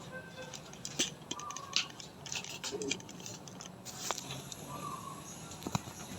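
Scattered sharp clicks and ticks, the loudest about a second in and near two seconds in, over a steady low hum.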